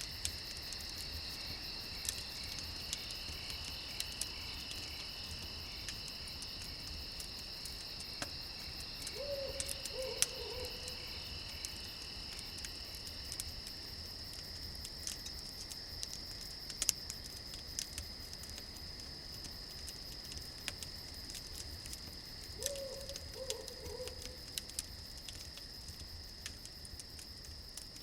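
Crickets chirping steadily at several pitches, with the scattered small pops of a crackling campfire. An owl hoots twice, each call a short run of about three notes, once about ten seconds in and again some thirteen seconds later.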